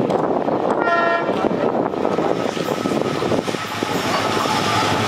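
An approaching express train's locomotive sounds one short horn blast about a second in, over the steady, growing rumble and rattle of the train's wheels on the rails as it nears at speed.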